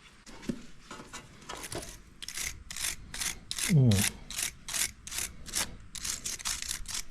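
Wire brush scrubbed back and forth on a battery cable terminal, with quick rasping strokes about three a second. About four seconds in comes a short falling-pitched sound, the loudest moment.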